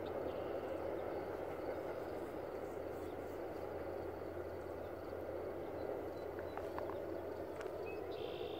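Distant passenger train rumbling steadily across a high steel trestle viaduct, fading slowly as it moves away, with a few short bird chirps near the end.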